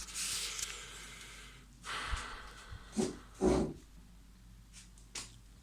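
A man breathing close to the microphone: a long breath lasting about a second and a half, a second breath about two seconds in, then two short nose or mouth noises around three seconds in. A faint click comes near the end.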